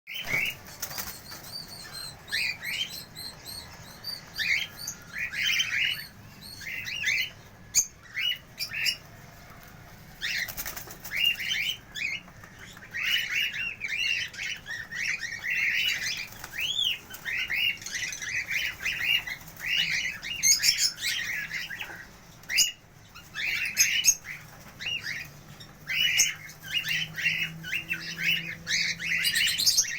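Cockatiels chirping, short repeated calls coming in quick runs of several a second, with brief pauses between runs.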